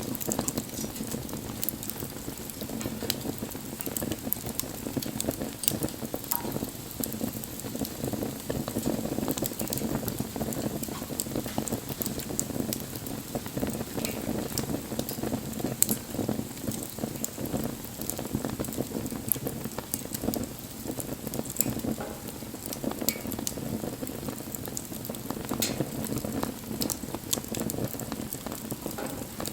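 Wood fire burning with steady crackling: many small sharp pops over a continuous hiss.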